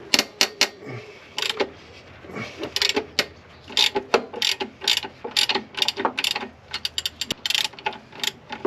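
Ratchet wrench clicking in short, irregular bursts, loosening the lower alternator mounting bolt so the V-belt can be re-tensioned.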